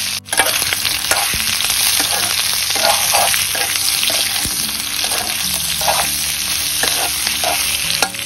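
Smoked chicken pieces and sliced onions sizzling in hot oil in an iron wok, with a metal spoon scraping and stirring against the pan.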